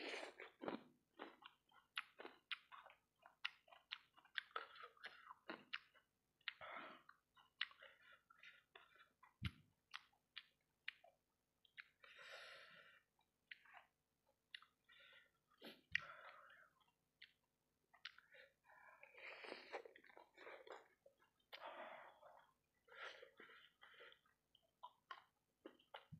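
Close-miked chewing of sauce-coated fried rice balls: irregular wet mouth clicks and smacks with short bursts of chewing, and a couple of soft low thuds.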